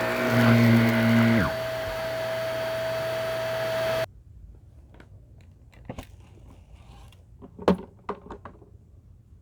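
Shark Navigator upright vacuum cleaner running with a steady whine and hiss. A lower drone sinks in pitch and fades about a second and a half in, and the vacuum stops abruptly about four seconds in. A few light clicks and knocks follow.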